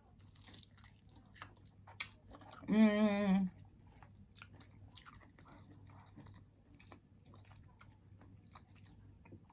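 Close-miked chewing of food, with many small wet mouth clicks and smacks. About three seconds in comes a short hummed voice sound, under a second long.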